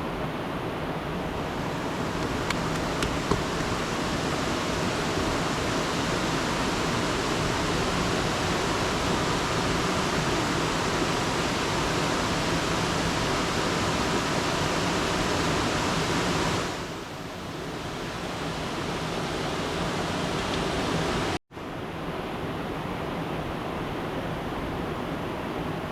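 Rushing river water, a steady broad rush. It thins a little about two-thirds of the way through and drops out for an instant at an edit cut before carrying on.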